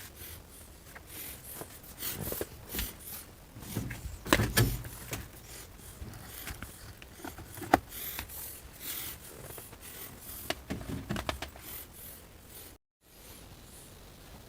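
Irregular knocks, clicks and rustling of objects being handled, with one sharp click about halfway through.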